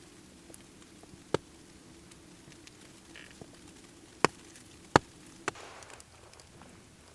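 Four sharp cracks or knocks, spread over several seconds, with fainter ticks between them over a faint steady background.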